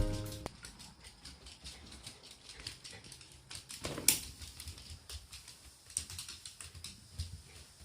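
Shiba Inu eating soft jelly from a bowl: a run of small, irregular clicks and smacks of chewing and licking, with one louder knock about four seconds in. Background music cuts off just at the start.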